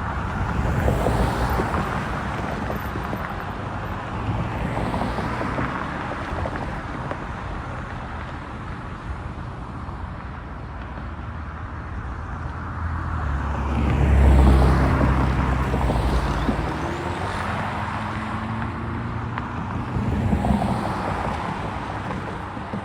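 Road traffic passing over a railroad grade crossing: several vehicles go by one after another, each swelling and fading, with a heavier, louder one passing about 14 seconds in.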